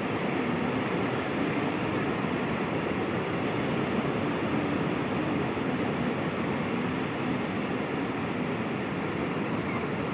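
Sea waves and surf making a loud, steady roar with no distinct breaks.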